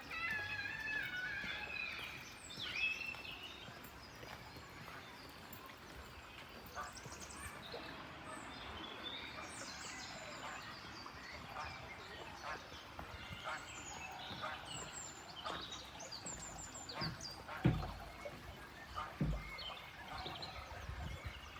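Small birds chirping and twittering, many short calls and warbling phrases overlapping against faint background noise. Two low thumps come near the end.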